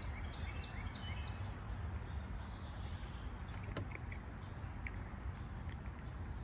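Outdoor ambience: a steady low rumble with a bird calling over it. The bird gives a quick run of falling chirps at the start and one longer falling note about two and a half seconds in. A single sharp click comes a little later.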